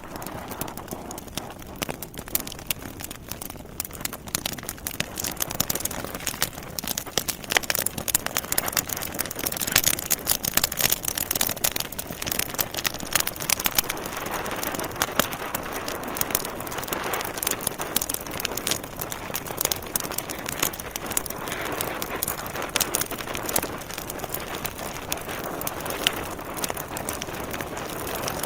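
Wood fire burning in a fireplace: a steady hiss of flames with dense crackling and popping from the logs, busiest in the middle stretch.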